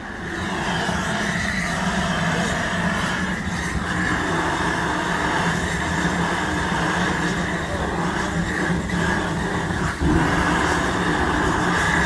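Steady industrial machinery running with a low hum, growing a little louder about ten seconds in.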